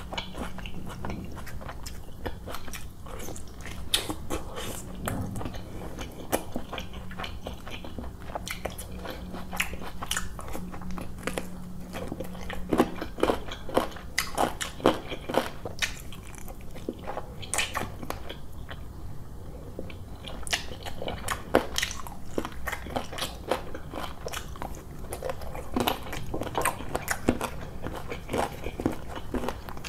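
A man chewing and biting roti and chicken curry close to the microphone, with many sharp, irregular mouth clicks.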